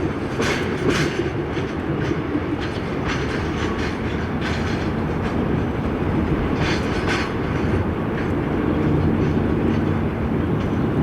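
Train rolling past with a steady rumble, its wheels clacking over rail joints in pairs every second or few.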